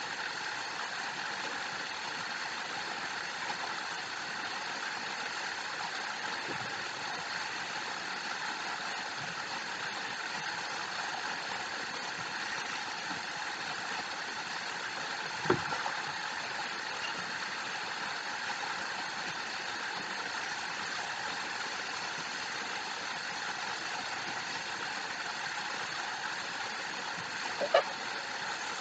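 Steady, even rushing noise of a waterfall, unchanging throughout, with two brief knocks: one about halfway through and a louder one near the end.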